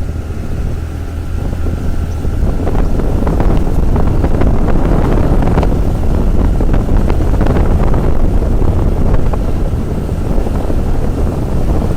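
Wind rushing over the microphone of a moving TVS Jupiter scooter, with the scooter's engine running steadily underneath as a constant low rumble.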